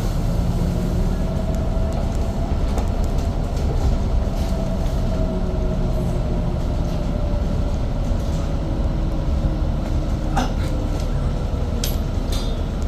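Electric airport train running, heard from inside the carriage: a steady low rumble with a faint motor whine that slowly glides in pitch, and a few sharp clicks near the end.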